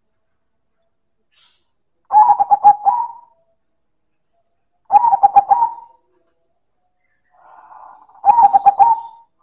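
Silver zebra dove (perkutut) singing three times, each phrase a quick run of staccato coos that ends on a drawn-out note, about a second long. A fainter, softer coo comes just before the third phrase.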